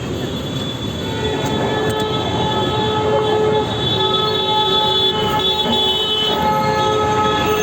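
Busy street noise: a steady rumble with a sustained pitched tone that comes in about a second in and holds for several seconds.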